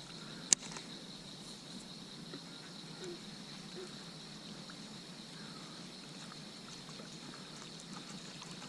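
Quiet pond ambience: a steady faint high-pitched insect hum with light water trickling, and one sharp click about half a second in.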